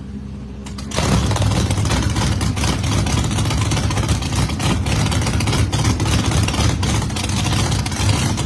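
Drag-race car engine idling, then about a second in going to a loud, sustained full-throttle run with a rough, crackling exhaust.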